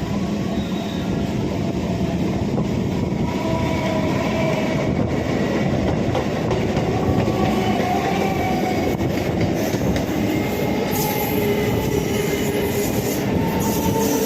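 Suburban EMU local train running along the track, a steady loud rumble of wheels and carriages with faint, drawn-out high tones drifting through it.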